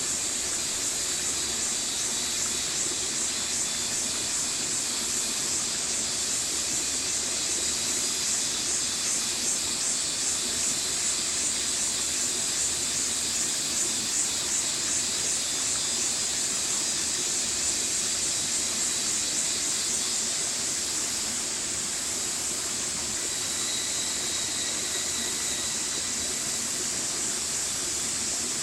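Stream water rushing steadily, an unbroken hiss with most of its energy high up.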